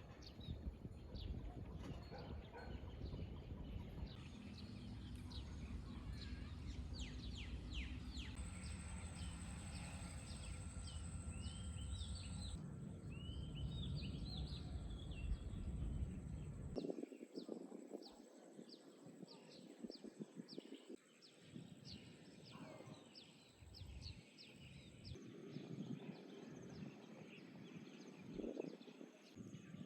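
Birds chirping repeatedly with short, quick calls. For the first half a low steady rumble sits underneath, then cuts off abruptly, leaving only the bird calls.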